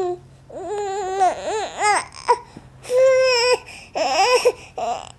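Baby babbling in a string of high-pitched vocal syllables, each rising and falling in pitch, with a couple of longer held squeals, which the parent takes for the baby saying "mama".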